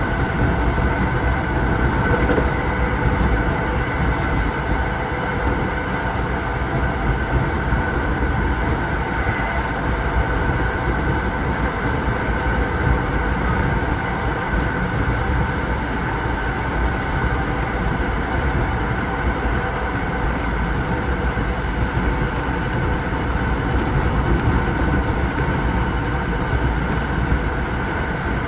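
Passenger train running steadily at speed, heard from inside the carriage: a constant rumble with a faint steady hum of a few tones above it.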